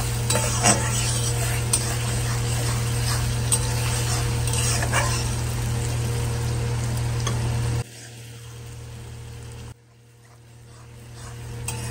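Chopped onions and ginger-garlic paste sizzling as they fry in oil in a metal kadai, stirred with a metal spatula that scrapes and clicks against the pan, over a steady low hum. The sizzle cuts off sharply about eight seconds in, drops further just before ten seconds, then swells back up near the end.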